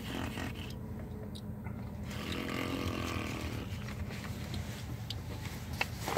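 Steady low rumble of a car engine idling, heard from inside the cabin, with a few light clicks near the end.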